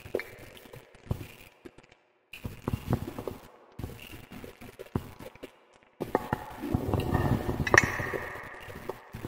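Wood fire crackling: irregular pops and snaps from burning logs. The audio briefly cuts to silence twice, and about six seconds in the fire gets busier, with denser crackle and a rushing sound.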